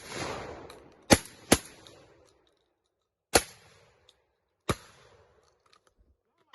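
Shotgun shots during dove and pigeon shooting: five sharp reports, each with a short echoing tail. Two come close together about a second in, then single shots follow at spaced intervals, the last at the very end.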